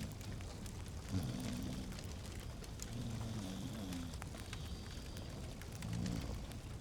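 A log fire crackling, with scattered sharp pops over a steady low rumble.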